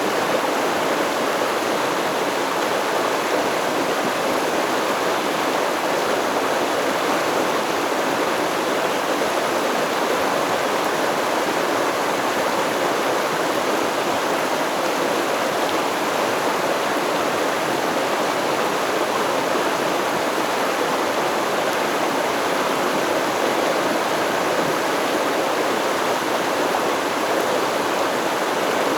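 Steady rushing of a river or stream flowing over rocks, an even, unbroken water noise with no birds or other sounds.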